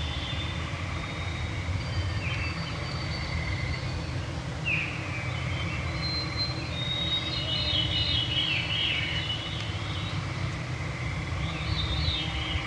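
Several songbirds singing in an evening woodland chorus, with a trill early on and a cascade of falling notes a little past the middle, over a steady low rumble.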